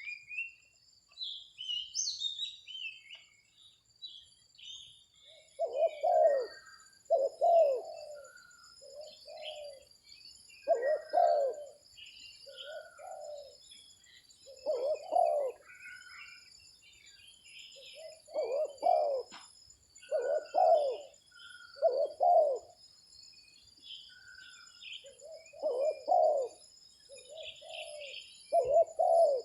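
Spotted dove cooing repeatedly in short phrases of low coos, starting about five seconds in. Small birds chirp higher up, over a steady high-pitched hum.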